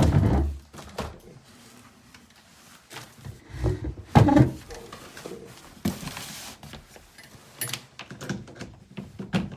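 Handling noises from a plastic robot-vacuum charging base and its power cord being moved and set in place: a thump at the start, two heavier knocks a few seconds in, a brief rustle and some small clicks.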